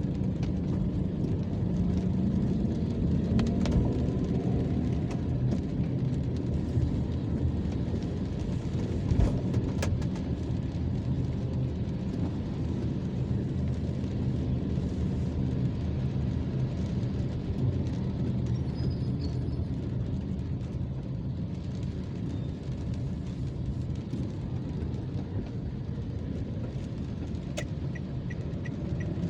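Steady low rumble of motor vehicles on a wet road in the rain, with an engine hum underneath and a few faint clicks.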